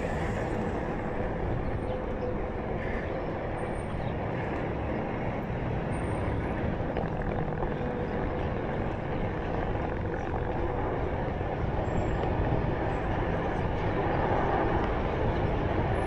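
Steady rushing road and wind noise from riding a Onewheel, its single wheel rolling on pavement, growing slightly louder near the end. A faint steady hum sits under it in the first few seconds.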